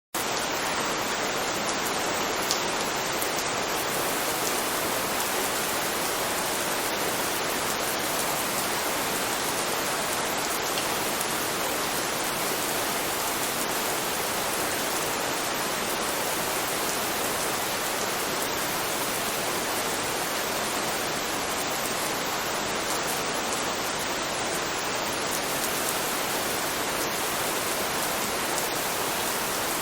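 Steady, unbroken rainfall, an even hiss of rain falling on a surface.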